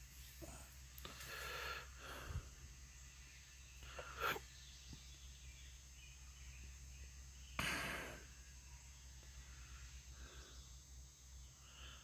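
Quiet outdoor ambience with a faint steady low hum, broken by three short puffs of noise, about one, four and eight seconds in, the last the loudest.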